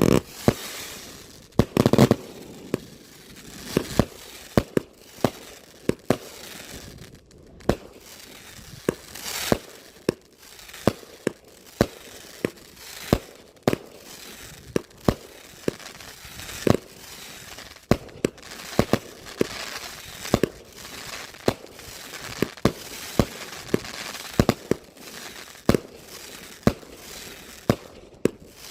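Multi-shot consumer fireworks cake (Odyssey 100-shot) firing: a long string of sharp bangs, about two a second, with crackling in between.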